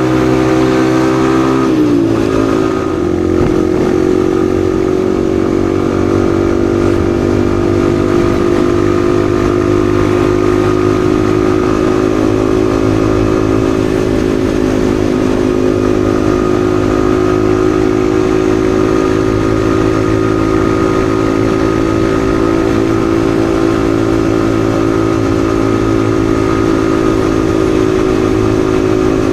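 Yamaha XSR155's single-cylinder engine running under way. Its note dips briefly about two seconds in, then holds steady at cruising speed.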